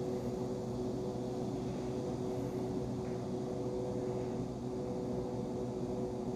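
Refrigerator running with a steady electric hum, holding two even tones over a low rumble.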